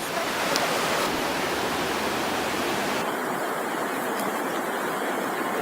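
Steady rushing of a waterfall, an even wash of falling water with no breaks; its upper hiss thins slightly about halfway through.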